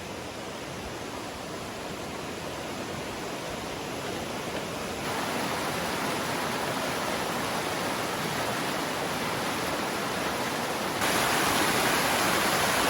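Steady rush of flowing creek water, getting abruptly louder about five seconds in and again near the end.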